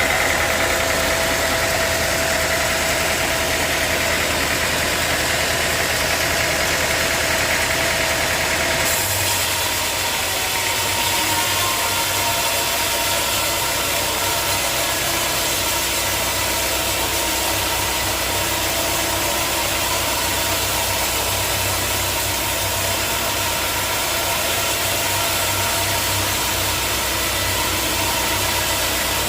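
Sawmill machinery running steadily with an engine-like drone, its sound changing abruptly about nine seconds in.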